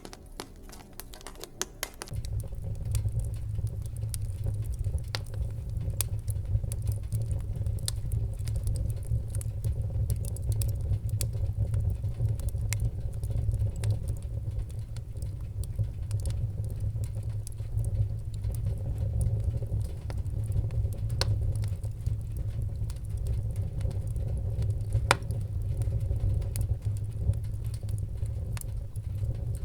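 Wood fire in a fireplace crackling, with scattered sharp pops and snaps. About two seconds in, a steady low roar of the flames comes in underneath and holds.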